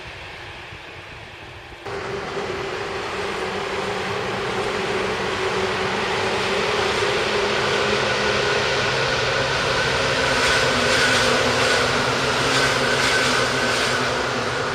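Seibu Railway electric train running by, getting steadily louder, with the steady whine of its motors over rumbling wheel noise and a clatter of wheels over rail joints near the end. About two seconds in the sound jumps suddenly from a quieter train noise to the louder one.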